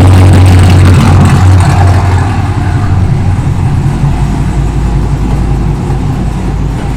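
Chevy SS's 6.2-litre V8 idling shortly after a cold start, a steady deep hum. It is loudest in the first couple of seconds, then settles a little quieter and holds steady.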